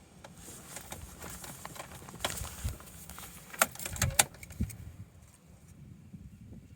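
Keys jangling, with several sharp clicks and knocks, two of them loud about halfway through.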